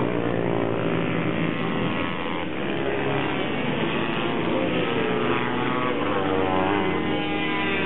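Several racing minibike engines running hard at once, their overlapping pitches rising and falling as the bikes accelerate and shift.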